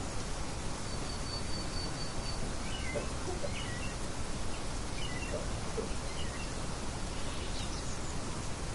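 Nature ambience of birds chirping over a steady outdoor hiss. A quick run of high short notes comes about a second in, and scattered short chirps follow a few seconds in.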